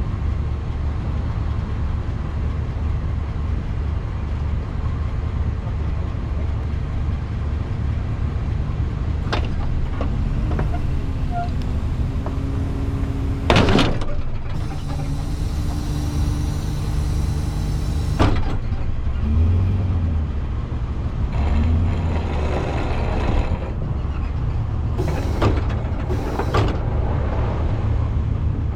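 A truck engine runs steadily with a low drone. A few sharp knocks or clicks sound through it, the loudest about halfway through, followed by a hiss lasting about three seconds.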